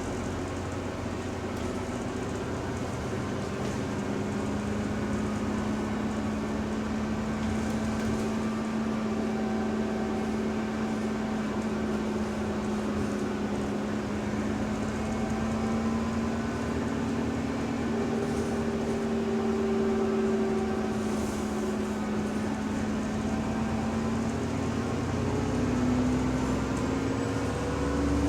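Inside a moving bus, a steady whine with overtones drifts slowly in pitch with road speed and rises near the end, over the running rumble. It is the subtle, weird differential noise of this bus's rear axle.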